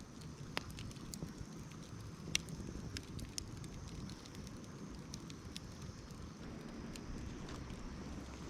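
Campfire of burning wood crackling, with scattered sharp pops over a low steady rumble; the strongest pops are about half a second and two and a half seconds in.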